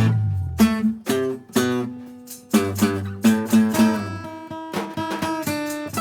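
Live instrumental music: the full band sound stops abruptly, leaving single plucked string notes ringing out one by one. The notes gather into a quicker picked figure over the last few seconds.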